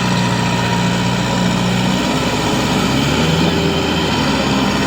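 Kubota MU5502 tractor's four-cylinder diesel engine running hard as it works in deep mud, its note shifting about two seconds in.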